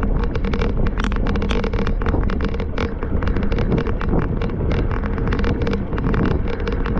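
Strong wind buffeting the microphone: a constant heavy rumble with rapid crackles throughout.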